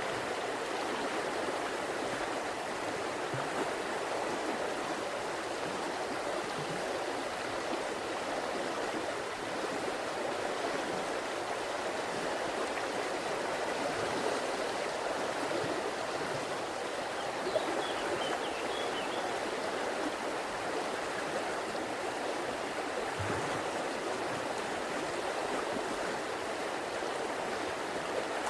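A river's water rushing steadily in an even, unbroken flow, with a few faint high chirps a little past halfway.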